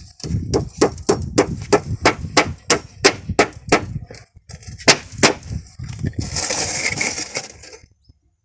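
Hammer driving nails into car-tyre rubber, a quick even run of blows about four a second, then two more strikes. A couple of seconds of scraping and rustling follow near the end.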